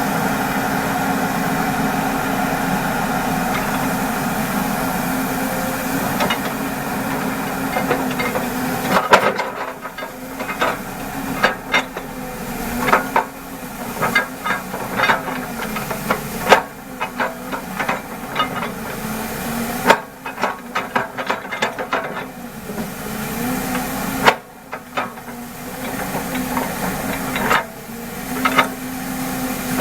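An engine running steadily, joined from about nine seconds in by irregular sharp knocks and clanks, some in quick clusters, typical of machinery and steel being handled at a bored-pile construction site.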